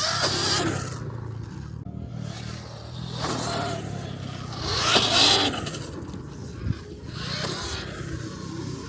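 Dirt bikes riding past on a motocross track: a surge of engine and tyre noise swells and fades about every two to three seconds, over a steady low hum.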